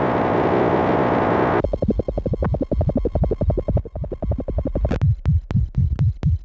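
Electronic noise music from small modular synthesizers (Bastl Kastle and Korg Volca Modular): a steady noise wash that cuts off under two seconds in to a fast pulsing rattle, then turns at about five seconds into slower low thumps with sharp clicks, about four a second.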